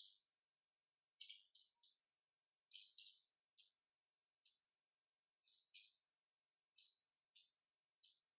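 A small bird chirping: short, high, sharp-edged notes, about a dozen of them, in irregular groups of one to three.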